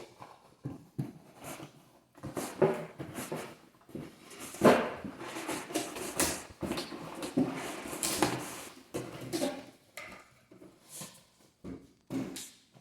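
Irregular rustling, clicking and knocking of packaging and plastic parts being handled as a coffee maker is unboxed.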